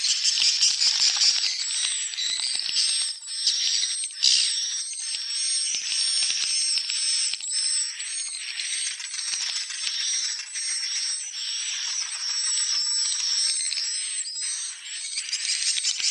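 Swiftlets twittering: a dense, continuous chorus of many short high chirps, closely repeated, over a rattling chatter.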